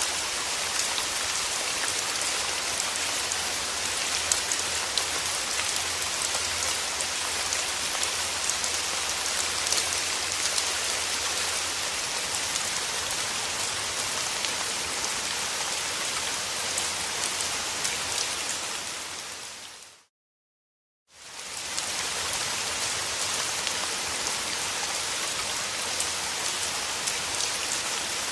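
Steady rain falling, a dense patter of drops. About twenty seconds in, it fades out to a second of silence and fades back in.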